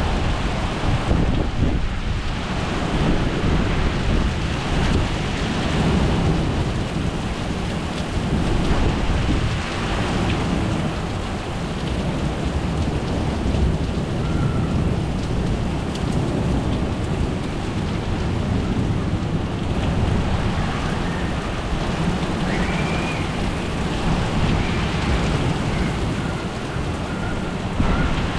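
Steady heavy rain with a low, continuous rumble of thunder underneath.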